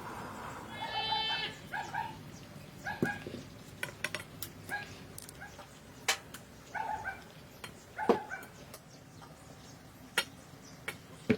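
A goat bleating in short, high calls about every second, with a few sharp knocks among them.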